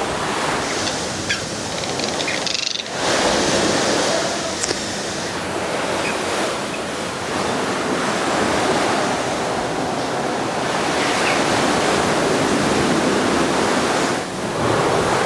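Steady rushing noise of sea surf, with a short break about three seconds in.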